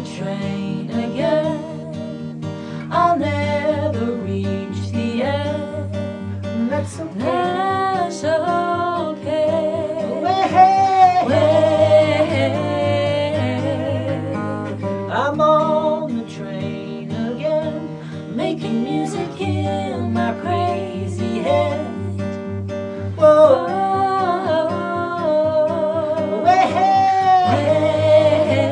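Acoustic guitar playing under a sung melody with vibrato, part of a live acoustic song performance.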